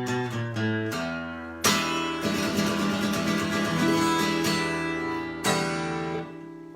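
Guitar playing the closing bars of a song: a run of picked notes, then a strummed chord about a second and a half in and a last chord near the end that rings out and fades.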